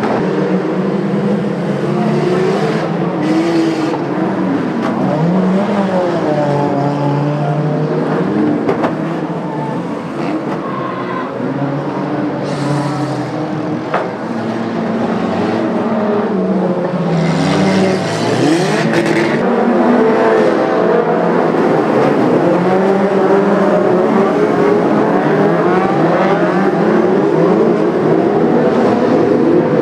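Several oval-track race cars (bangers or stock cars) running in a pack, their engines revving up and down over one another. There are a few short hissy bursts and one sharp knock near the middle, and the engine noise grows louder and denser in the second half.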